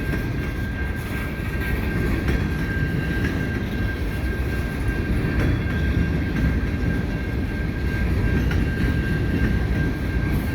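Freight train cars rolling past, a steady rumble of steel wheels on rail, with a thin steady high-pitched tone held throughout.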